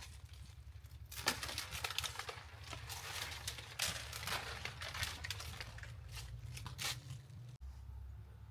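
Irregular rustling and crinkling handling noise with light crackles, stopping abruptly near the end.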